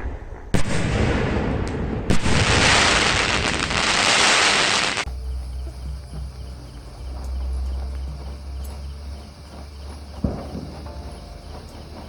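Fireworks going off: a sharp bang, then a dense loud hissing spray with another bang in it, cutting off suddenly about five seconds in. After that comes a low rumble with faint crackles, and a single bang about ten seconds in.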